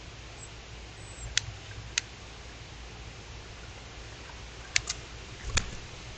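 Five short, sharp clicks over a steady hiss: one, another about half a second later, then a quick pair and a last click near the end.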